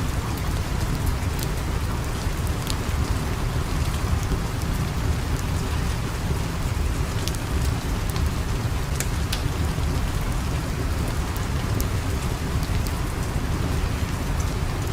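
Steady rain ambience with a deep low rumble underneath and scattered sharp crackles from a fire.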